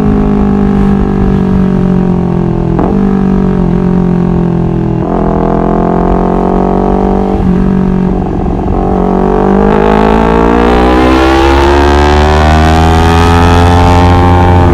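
Honda CBR250RR motorcycle engine running under way. Its note breaks sharply at gear changes about three times, then climbs in a long steady rise in pitch and loudness over the last few seconds.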